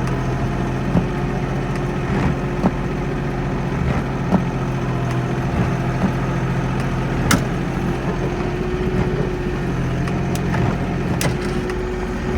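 Kioti NX4510 tractor's diesel engine running steadily while plowing snow, with a few sharp knocks and rattles scattered through.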